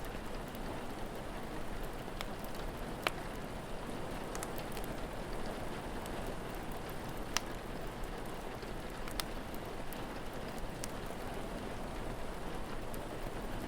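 Steady rainfall with the sharp pops and crackles of a wood fire scattered through it; the two loudest pops come about 3 and 7 seconds in.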